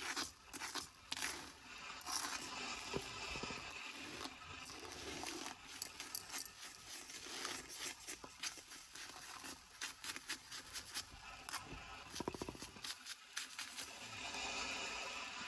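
Close-up rustling, crinkling and scraping of litter being picked through by hand, with many small irregular clicks.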